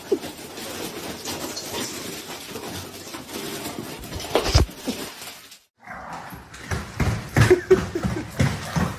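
A dog making short vocal sounds, with a brief break of silence a little past halfway.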